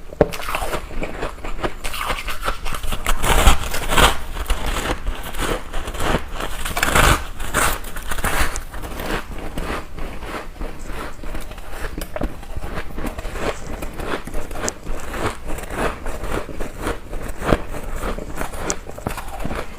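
Ice being bitten and chewed, a dense run of crisp crunches and crackles, with the loudest bites about three and seven seconds in.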